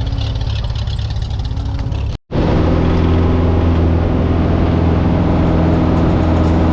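Jump plane's engine running with a steady drone. About two seconds in the sound cuts off for an instant and resumes just as steady.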